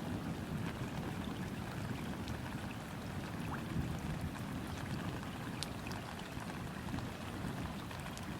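Rain falling steadily onto river water, with scattered sharp drop ticks over a steady low wash.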